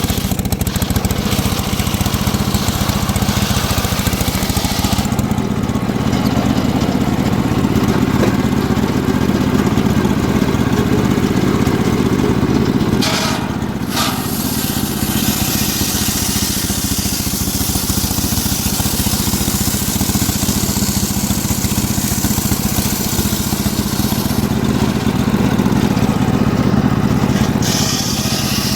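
Home-built circular sawmill running steadily under engine power while sawing mahogany, with a brief dip in the sound about thirteen seconds in.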